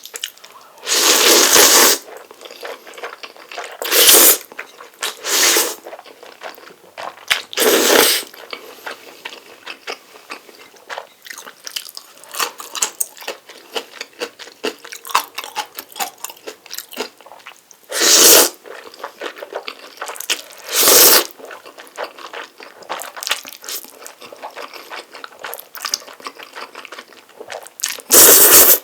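Close-miked eating of Chapagetti black bean noodles: about seven loud slurps of noodles, each under a second and irregularly spaced, with soft wet chewing and mouth clicks between.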